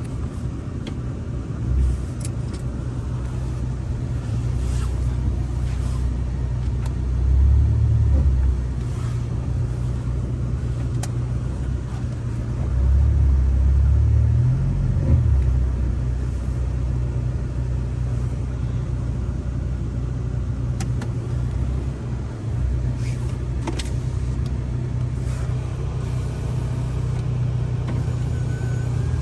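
A tuned Volkswagen Passat R-Line's engine running at low revs, rising twice in speed and level, about seven and about thirteen seconds in, as the car strains to move while stuck in deep snow.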